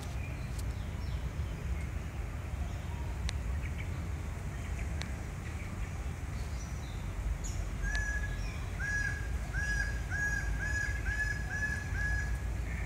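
A bird calling a quick series of about eight short, even notes, about two a second, starting some eight seconds in, over a steady low outdoor rumble.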